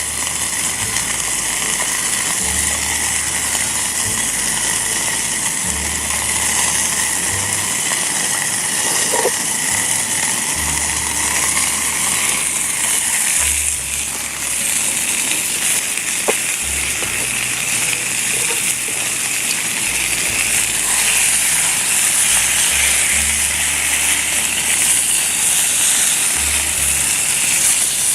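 Steady sizzling of chicken frying in a pan over a campfire, under background music with a bass line.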